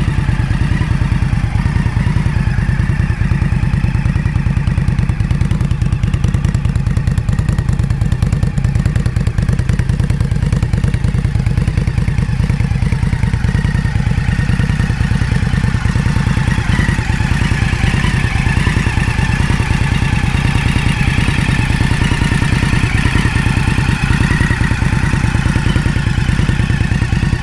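Indian Scout Rogue V-twin running steadily through a Jekill & Hyde exhaust, its firing pulses coming fast and even with no revving.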